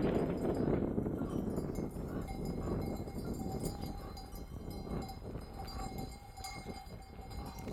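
Bells on a flock of sheep clinking and ringing faintly as the herd moves, with scattered small knocks.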